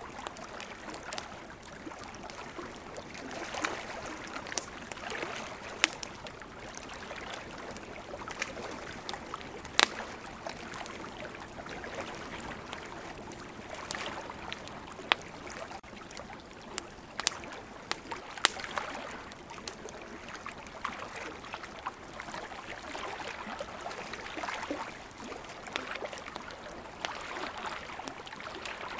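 Campfire crackling, with sharp irregular pops, over ocean waves washing in and drawing back every few seconds.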